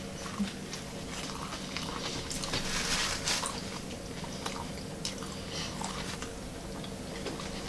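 Close-up mouth sounds of people chewing and biting food, with scattered small clicks and a louder stretch about three seconds in, over a faint steady hum.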